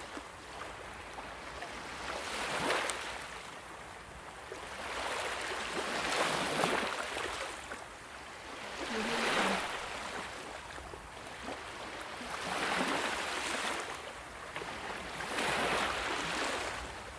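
Waves washing in, rising and falling in a swell of rushing water about every three to four seconds.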